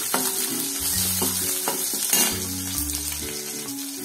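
Green chillies, curry leaves and garlic sizzling in hot coconut oil in a steel kadai, with a steel spatula scraping and giving a few sharp taps against the pan as they are stirred.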